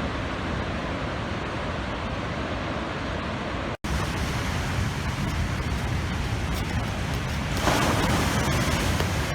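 Heavy storm surf rushing steadily under wind, with a louder wave surge about three-quarters of the way through. The sound cuts out for an instant a little under four seconds in.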